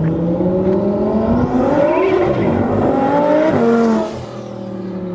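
Twin-turbo Audi R8 V10 engine revving hard, its pitch climbing for about two seconds with a hiss above the engine note. About four seconds in the revs fall away to a quieter, steadier lower note.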